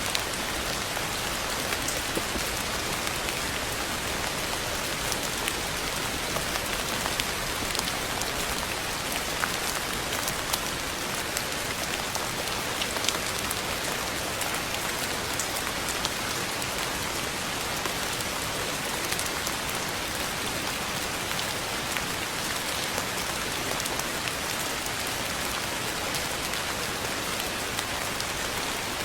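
Steady rain falling on a surface, an even hiss dotted with scattered individual drop ticks.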